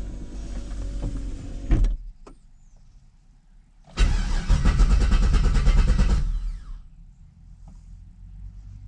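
A 5.3 LS V8 in an S10 is cranked on the starter for about two seconds and does not catch: a no-start, with the engine computer not being found. Before the cranking there is a humming sound that ends on a click about two seconds in.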